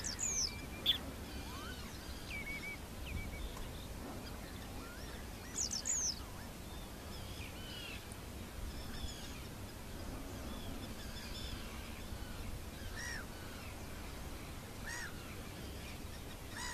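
Wild birds calling: scattered short chirps and whistling notes, two sharp high calls standing out about half a second in and around six seconds, over a steady low background rumble.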